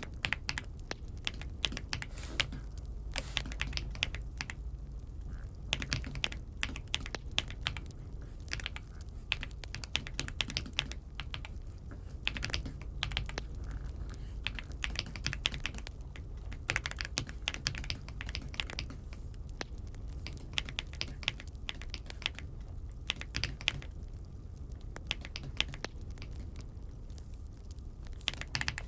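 Typing on an AULA F75 mechanical keyboard: irregular runs of key clacks with a few short pauses, over a steady low hum.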